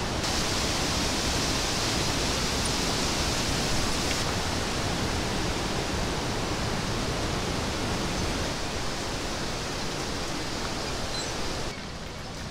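Steady rushing of water, the mixed noise of a mountain stream and heavy rain, dropping abruptly in level near the end.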